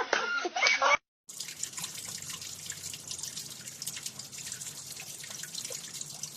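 The end of a voice over music, cut off about a second in, then water steadily trickling and dripping, with many small drips and splashes.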